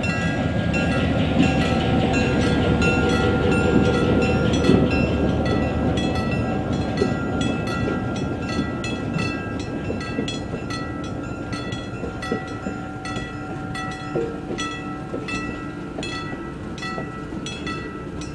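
A train rolling past a grade crossing: the rumble and wheel clatter of the cars going by, loudest over the first few seconds and easing after. Under it a crossing bell rings steadily, about two strikes a second.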